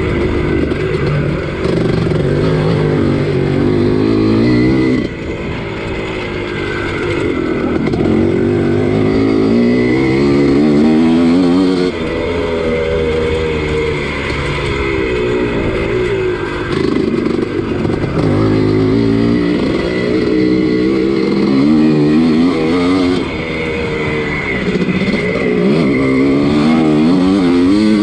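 1983 Husqvarna 250CR two-stroke motocross engine racing under hard throttle. Its pitch climbs and falls again and again as the throttle is opened and chopped, with several sudden drops before it winds back up.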